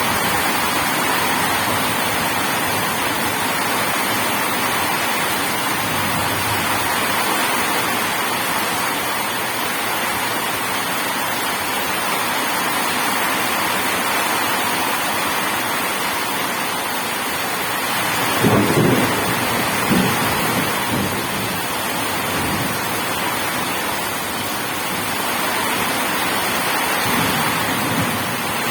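Steady rain pouring, with a clap of thunder rumbling low for a couple of seconds about two-thirds of the way in.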